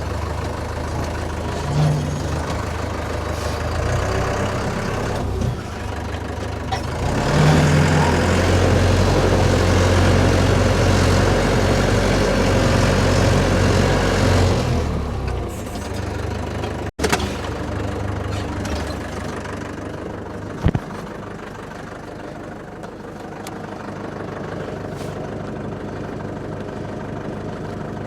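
Tractor engine running steadily, pulling harder and louder for several seconds in the middle, then a brief break and a quieter engine sound afterwards.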